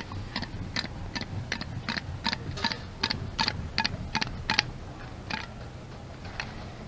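A quick run of regular sharp clicks, about three a second, that stops about four and a half seconds in, followed by a few scattered clicks.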